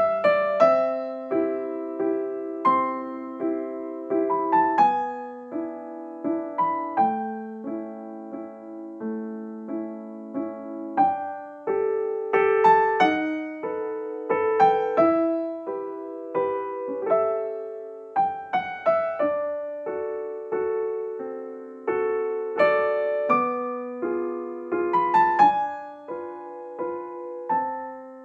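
Background music: a gentle solo piano piece of chords and a simple melody, each note struck and then fading.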